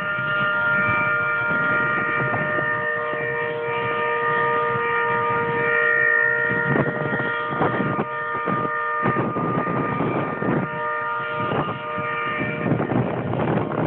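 A stuck vehicle horn sounding nonstop, a steady chord of several held tones, jammed on rather than being pressed. Its higher tones drop out near the end.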